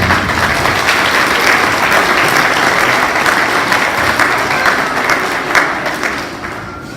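Audience applauding after a song, a dense patter of many hands clapping that tapers off toward the end.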